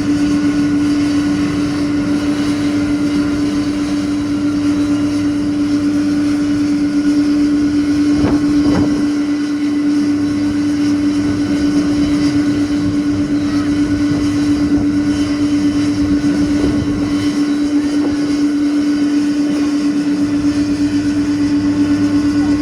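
Jet airliner engines running steadily, a constant hum with one strong steady tone and fainter higher whines over a rushing noise.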